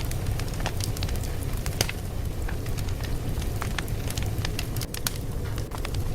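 Wood fire crackling: a steady low rumble with frequent sharp, irregular pops and snaps.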